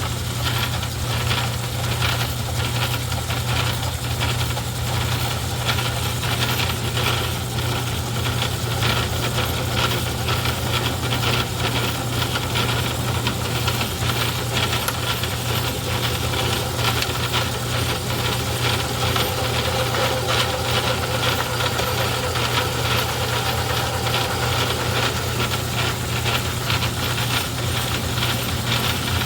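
Craftsman 109 metal lathe running steadily under power: a constant low hum with a dense, fast rattle over it.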